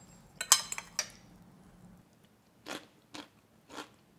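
Crisp crunching of cubed Korean pickled radish being bitten and chewed. There is a loud cluster of crunches about half a second in, then three single crunches about half a second apart near the end.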